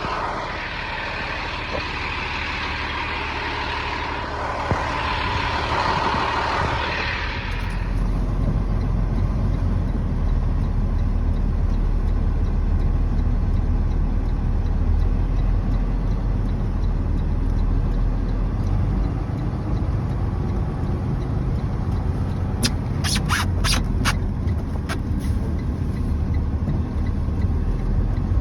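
Heavy truck's diesel engine running with a steady low rumble while the stuck rig is pulled out of a snowy ditch. The first seven seconds or so are a rushing hiss before the rumble comes up, and there is a quick cluster of sharp clicks near the end.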